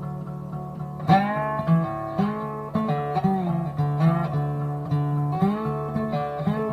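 Background music: acoustic guitar picking with slides, with a fresh phrase starting about a second in.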